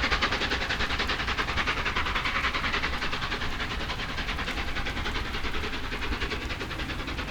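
Three-cylinder A4 Pacific steam locomotive 60007 Sir Nigel Gresley working past, its exhaust beats coming rapid and even over a low rumble, slowly fading as it draws away.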